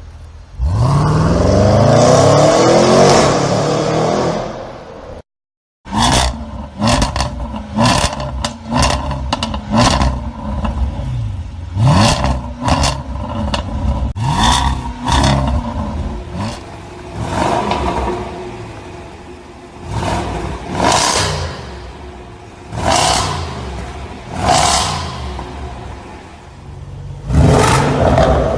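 2019 Range Rover SVR's supercharged V8 exhaust: a hard acceleration with a steadily rising engine note, then a string of quick throttle blips revving up and falling back about every second or two, with sharp crackles and pops on the overrun between them.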